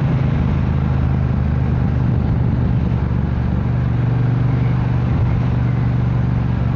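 Triumph Bonneville Bobber's 1200 cc parallel-twin engine running steadily under way, with wind rush, and a slight change in engine note about halfway through.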